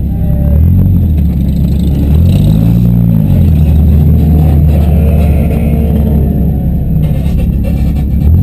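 Demolition derby cars' engines running hard and revving, the pitch rising and falling in repeated surges.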